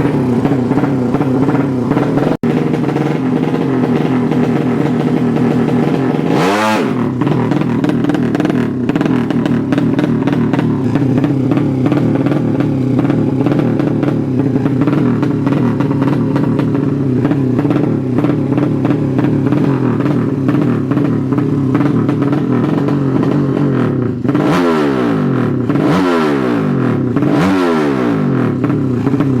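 Drag-racing motorcycle engine running loud at sustained high revs. Its pitch drops and climbs back sharply once about six seconds in and three times near the end, like throttle blips or gear changes.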